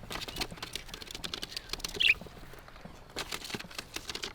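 Budgies moving about in an aviary: two spells of quick rustling clicks, from claws and wings on perches and wire, and one short chirp about two seconds in.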